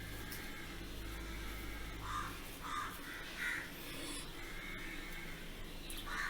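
Short bird calls, three in a row between about two and three and a half seconds in, over a low steady hum that stops about two seconds in.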